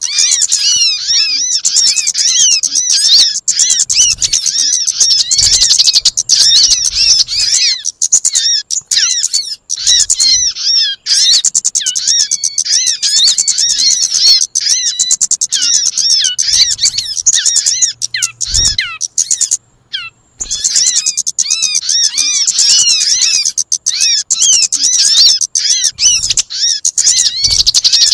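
Bird-lure recording: a dense chorus of high, rapid chirps and twitters from many small birds calling over one another, with a brief break about two-thirds of the way through.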